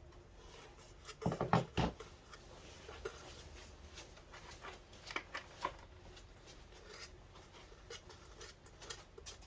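Scattered small clicks and knocks of parts being handled on a workbench, loudest a quick cluster of knocks a little over a second in.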